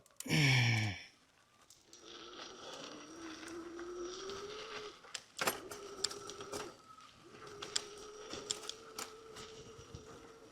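Electric bicycle front hub motor whining, its pitch rising steadily as the bike picks up speed and then holding, dropping out briefly twice, with scattered clicks and knocks from the bike over the rough road. Right at the start a short, loud sound falls in pitch.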